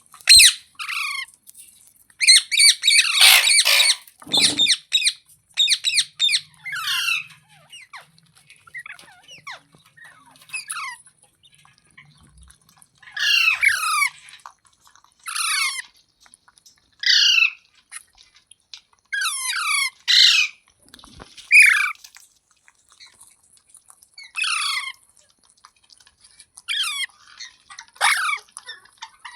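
Pet green parrot squawking repeatedly: short harsh calls, many falling in pitch, one every second or two, with a denser, louder run of calls about two to four seconds in.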